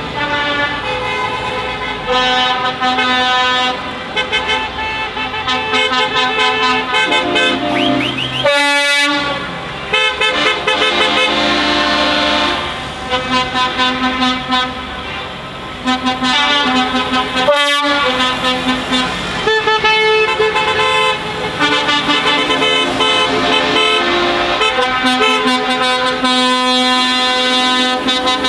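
Trucks' horns sounding over and over, many overlapping horn tones changing every second or two, over the vehicles running.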